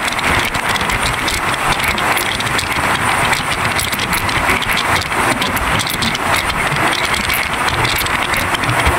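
Running noise of a moving passenger train heard at its open window: a steady rush of wind and wheels on the rails, with many small clicks.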